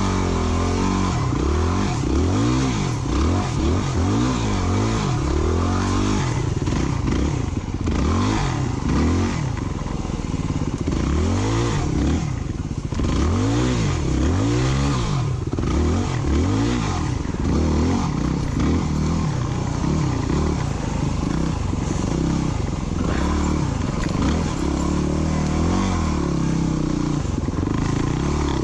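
Off-road motorcycle engine being revved up and down again and again, its pitch rising and falling in quick repeated swells, as the bike is spun through a donut and ridden hard on slippery ground.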